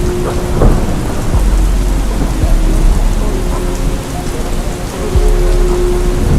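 Steady heavy rain with a low thunder rumble, over a slowed-down, reverb-drenched hip-hop track whose held notes and deep bass sit beneath the rain.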